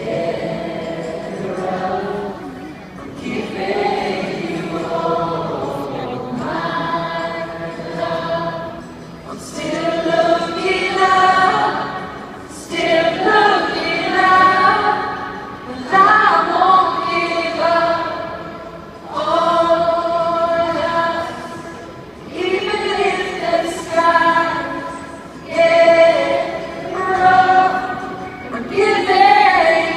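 Many voices singing together in long sung phrases, with little instrumental backing.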